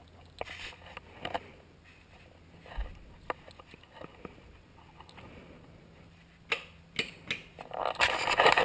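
Handling noise: scattered small clicks and knocks, a few sharper clicks near the end, then a rustling, scraping sound in the last second.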